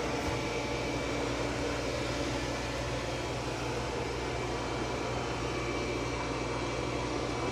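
Roborock Saros Z70 robot vacuum running, a steady whir of its suction fan and brushes with a faint steady whine in it.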